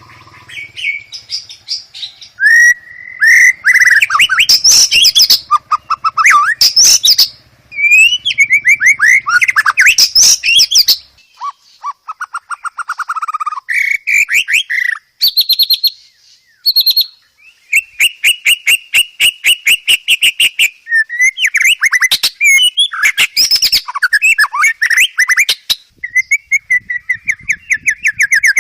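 White-rumped shama singing a long, varied song: rapid trills, whistled phrases and chattering notes follow one another with only brief pauses, the phrases including imitations of other birds.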